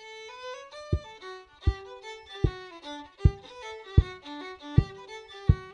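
Instrumental Irish hornpipe starting up: a quick, lilting melody of many short notes. Under it comes a steady low thump about every three-quarters of a second, the loudest sound here.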